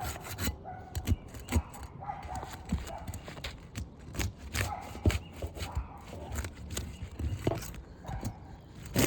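Irregular knocks, taps and scrapes of asphalt roof shingles being pried up by hand and tool during a shingle repair.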